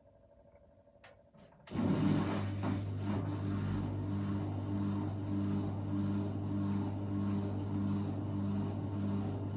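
Hoover New Wave washing machine's drain pump switching on suddenly about two seconds in and running with a steady mains hum that pulses about twice a second, over a rushing of water.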